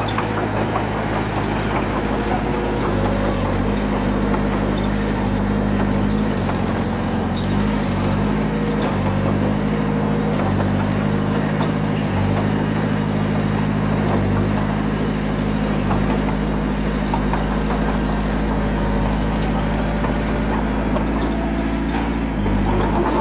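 Small bulldozer's diesel engine running steadily under load, its note dipping and rising a few times as the work changes.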